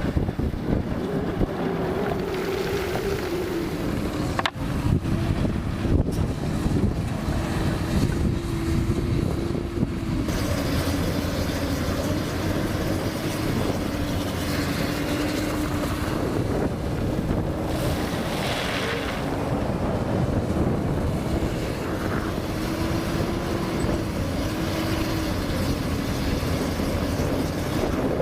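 Komatsu PC200 hydraulic excavator's diesel engine running steadily, its pitch rising and falling slightly as the load changes, with wind buffeting the microphone.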